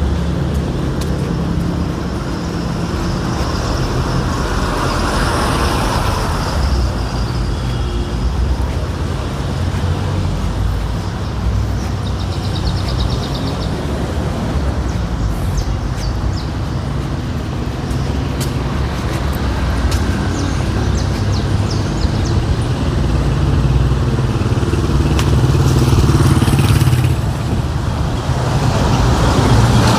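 City street traffic: vehicle engines running and passing, a steady low rumble with occasional clicks and squeaks, growing louder near the end.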